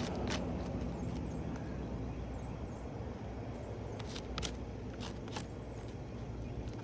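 Hand work on asphalt roof shingles: a few short sharp taps and clicks, most of them bunched about four to five seconds in, over a steady low rumble.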